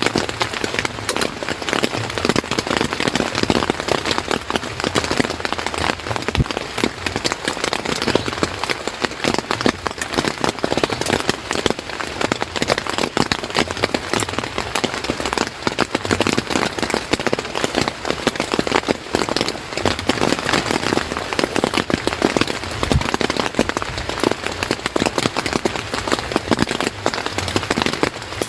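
Steady heavy rain falling, a dense, unbroken stream of drop impacts with no letup.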